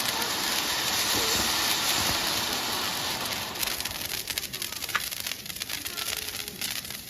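Spark-spraying firework hissing steadily, easing about three and a half seconds in to a thinner spray with scattered crackling pops.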